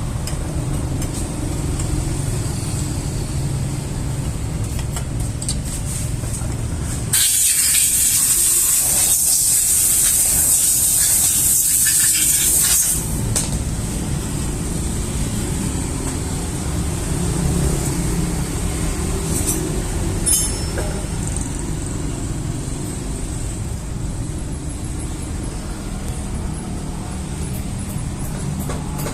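Yamaha F1ZR's two-stroke engine running steadily at a low speed, with a loud hiss for about six seconds near the middle.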